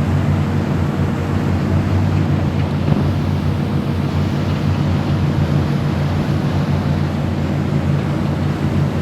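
Boat engine running at a steady speed, a low even hum, under a rush of wind and water.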